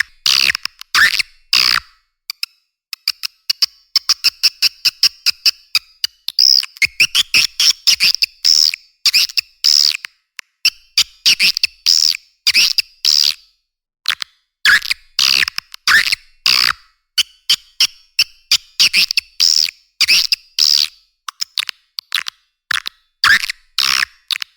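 Edible-nest swiftlet calling-sound recording: rapid high-pitched chirps and buzzy, clicking trills in repeated bursts with short gaps. This is the kind of lure call played to attract swiftlets into a swiftlet house.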